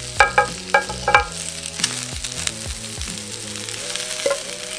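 Stir-fried chicken gizzards and vegetables sizzling as they are tipped and scraped from a frying pan onto a hot black platter, with a steady hiss and a few sharp utensil clicks near the start.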